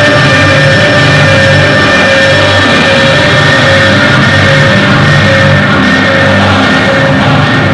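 Loud rock or heavy metal music with distorted guitar and drums, dense and unbroken.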